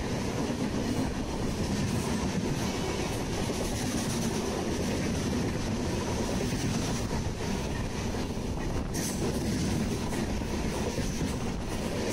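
A passenger train passing close on the adjacent track: the steady rumble and clatter of its coaches and wheels on the rails, heard from the window of another moving train.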